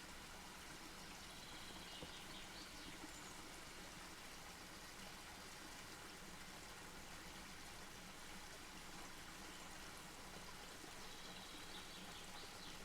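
Wood campfire burning softly, a faint steady hiss with a few small crackles about two to three seconds in. Faint high chirps come twice, about two seconds in and again near the end.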